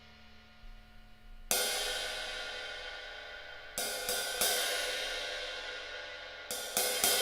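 B20 bronze cymbals of the Arborea Hybrid AP set being struck and left to ring. One strike about a second and a half in decays slowly. Two more come close together near the middle, then a quicker run of strikes near the end.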